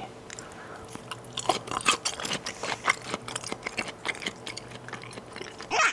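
Close-mic chewing of raw yellowtail belly sashimi: a run of irregular soft, wet clicks and smacks from the mouth. A short vocal sound comes near the end.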